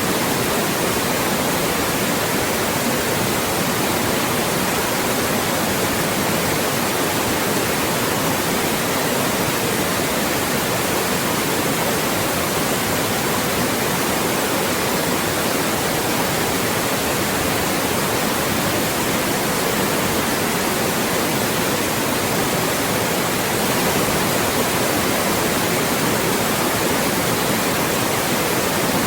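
Loud, steady white noise, an even hiss across all pitches with no change.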